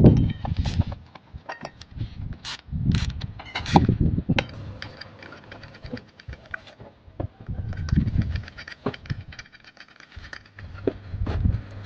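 Metal parts and tools being handled during workshop work on a small engine and clutch: irregular clinks, clicks and knocks, with a few duller thumps.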